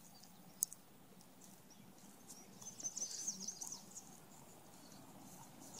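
A small bird chirping faintly outdoors, with a quick burst of rapid high notes around the middle of the stretch. There is a single sharp click near the start.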